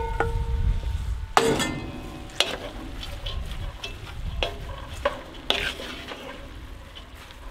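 Diced vegetables tipped from a stainless steel bowl into a hot cast-iron Dutch oven of browning venison: the bowl rings briefly against the pot at the start, and the food sizzles loudly about a second and a half in. A wooden spoon then stirs the mixture, with scattered knocks and scrapes against the pot over a steady frying sizzle.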